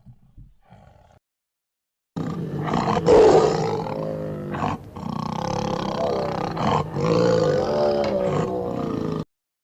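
A tiger roaring. After a faint tail and a second of silence, about seven seconds of loud, deep roaring, broken by two short breaths about halfway and two-thirds of the way through, then it cuts off suddenly.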